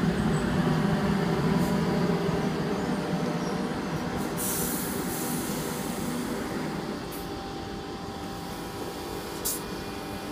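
Sydney Trains Tangara electric train at the station, its low running hum slowly fading, with a short burst of hissing air about halfway through.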